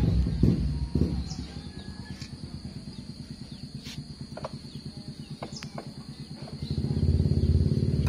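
Truck engine running with an even low pulse, louder at the start, quieter in the middle and building up again about seven seconds in. Birds chirp briefly several times over it, and a steady high tone runs underneath.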